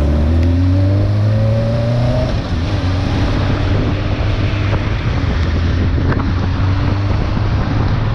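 Motorcycle engine pulling away, its pitch rising for about two seconds until a gear change, then running steadily, under a constant rush of wind and road noise.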